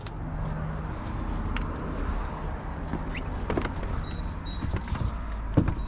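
A few short plastic clicks and knocks as a dashboard panel is worked loose from its last fastener, over a steady low hum.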